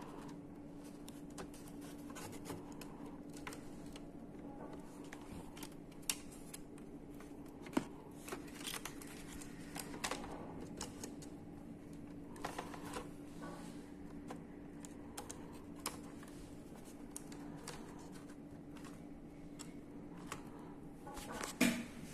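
Irregular small clicks, taps and scrapes of hands and tools working on the opened laptop's plastic and metal parts around its cooling fan, over a steady low hum.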